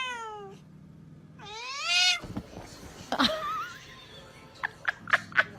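A cat meowing twice, two long drawn-out meows that rise and then fall in pitch, followed by a few short clicks or taps near the end.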